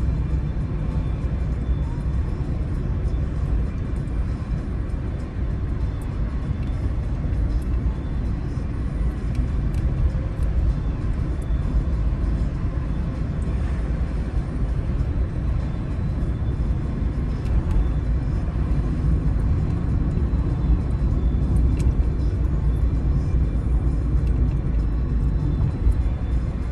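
Car driving along a road, heard from inside the cabin: a steady low rumble of engine and tyres on the road surface.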